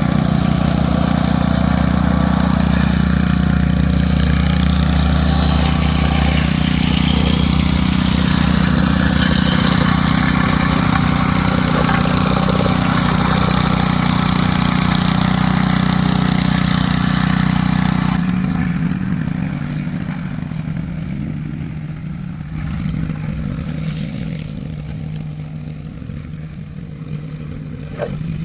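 VEVOR plate compactor's 78.5cc gas engine running steadily under vibration. About two-thirds of the way through the sound drops and grows gradually quieter, and there is a brief click near the end.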